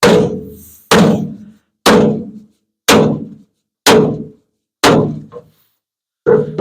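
A hammer tapping a wooden body block against dented truck sheet metal in paintless dent repair. Seven sharp knocks come about once a second, each ringing briefly in the steel.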